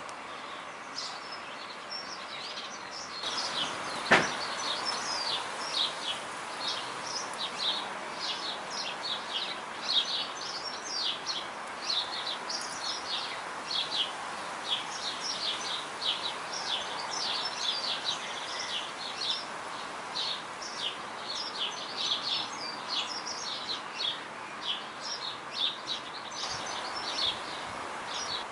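Birds chirping: many short, high, downward-sliding notes in quick succession over a steady outdoor background hiss. A single sharp click about four seconds in.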